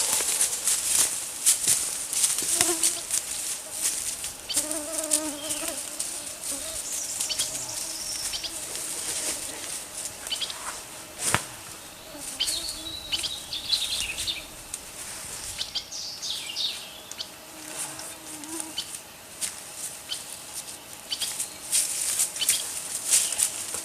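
Footsteps and rustling through forest undergrowth, with a fly buzzing on and off and a few bird chirps about halfway through.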